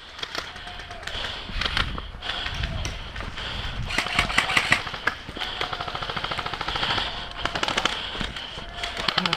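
Airsoft guns firing on full auto, with several rapid rattling bursts of shots.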